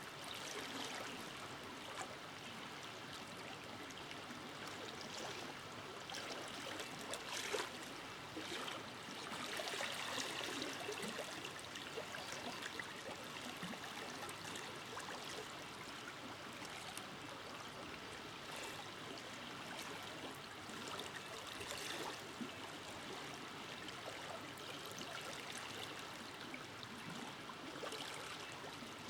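Forest river flowing steadily, water rushing and gurgling over rocks with small splashes rising and falling in the steady rush.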